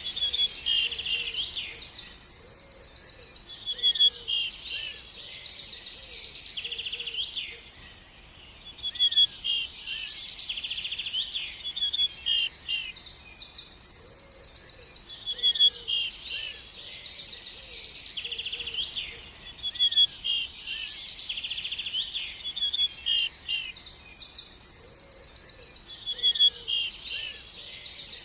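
A songbird singing in repeated phrases of quick high chirps and rapid trills, with a short pause about eight seconds in.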